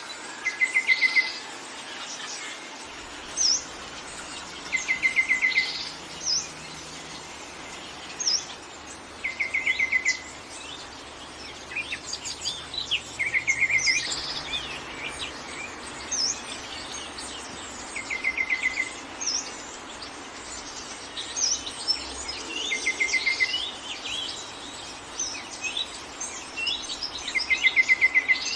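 Several birds singing: one repeats a short song of quick notes every four seconds or so, and another gives short high chirps in between, over a steady hiss of forest background.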